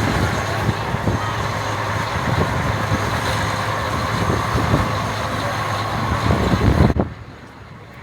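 Mount Washington Cog Railway train climbing, heard from aboard: a steady loud rumble with a running clatter. It cuts off abruptly about seven seconds in.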